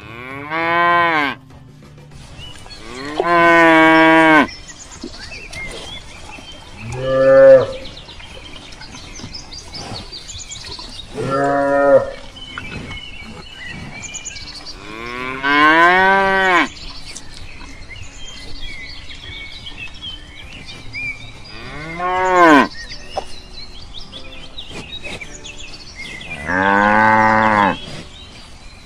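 Cattle mooing: seven separate calls a few seconds apart, each rising and then falling in pitch, some short and some drawn out.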